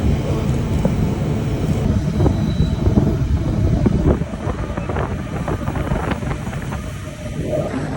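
TranzAlpine passenger train running along the track: a loud, steady low rumble with short clattering knocks from the wheels, and wind buffeting the microphone.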